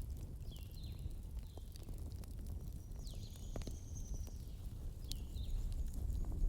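Burning log fire crackling with scattered sharp pops over a low rumble, while small birds chirp a few short calls over it, about half a second in, around three seconds in and again near five seconds.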